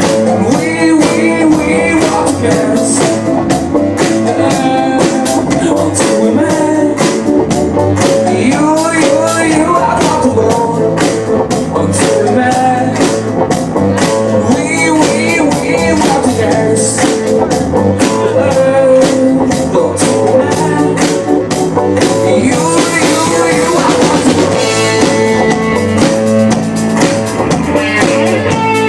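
Live band playing a rock song: a steady, driving drum-kit beat under guitar and other pitched instruments, loud throughout.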